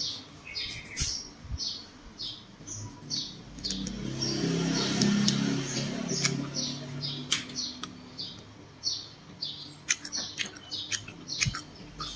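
Close-miked chewing and crunching of grilled water snake, with short repeated wet mouth sounds and sharp clicks, and a low hum for a few seconds in the middle.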